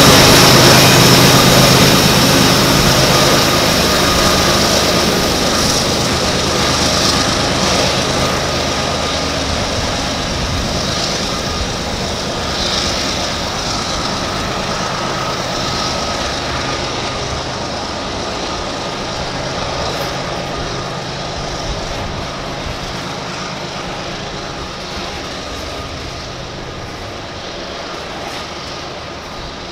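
CSX freight train passing close by: the diesel locomotives' engine drone is strong in the first few seconds, then gives way to the steady rumble and clatter of hopper cars' steel wheels on the rails, slowly fading as the train goes by.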